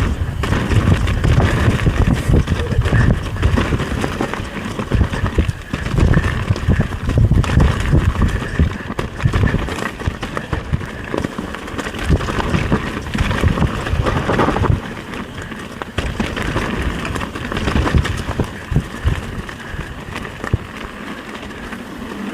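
Mountain bike rolling down a dirt trail: wind buffeting the camera microphone, with tyres crunching over scattered branches and the bike rattling. It gets quieter about two-thirds of the way through.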